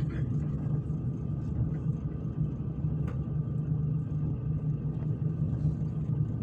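Steady low rumble of a passenger train in motion, heard from inside the carriage, with a few faint ticks.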